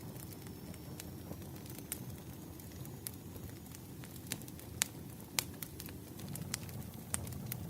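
Wood fire crackling: a steady low rumble of burning logs with scattered sharp pops and snaps, the two loudest about five seconds in.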